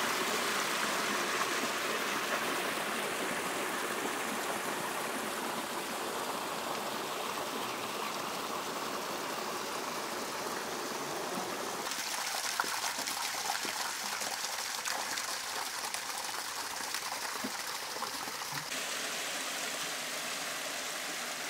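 Valley stream flowing: a steady rush of running water, its tone changing abruptly about twelve seconds in and again near the end.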